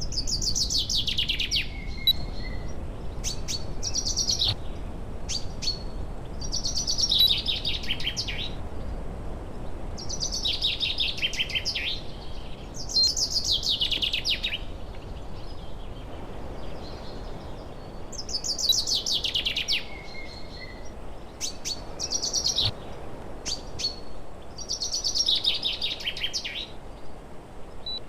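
A songbird repeating its song, a fast run of notes falling in pitch over about two seconds, every three to four seconds, with a few short high chirps between phrases.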